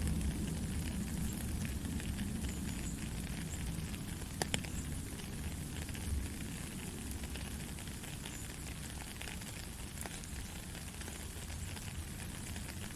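Gentle, steady rain: an even hiss dotted with many fine drop ticks over a low rumble, with one sharper drop tick about four and a half seconds in.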